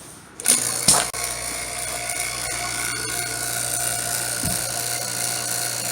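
Freshly serviced HVAC refrigerant vacuum pump starting up about half a second in and then running steadily with an even motor whine, on test to see how deep a vacuum it pulls.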